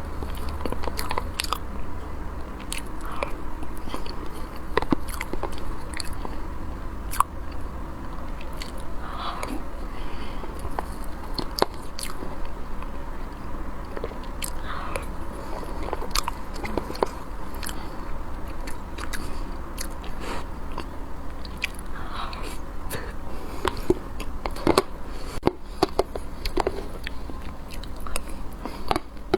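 Close-miked eating: a person biting and chewing food, with many short, sharp mouth clicks and smacks at an irregular pace.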